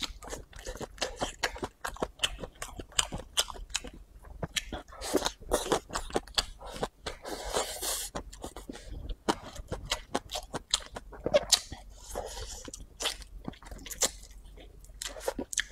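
A person chewing and biting a mouthful of stir-fried rice noodles with greens and beef: many sharp, irregular wet mouth clicks and crunches.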